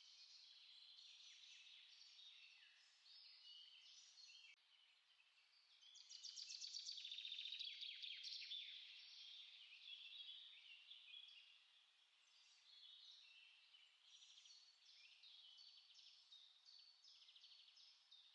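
Small songbirds singing, with many short chirps and notes overlapping, and a louder rapid trill about six seconds in that lasts two to three seconds.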